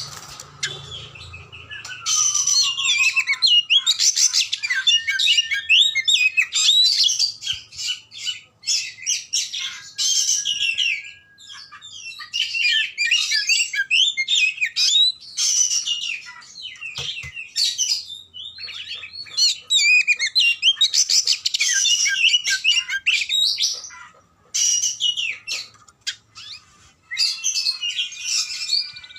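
Oriental magpie-robin (kacer) singing a long, varied song of quick whistles, trills and chattering notes, in long runs broken by short pauses, with an occasional drawn-out level whistle.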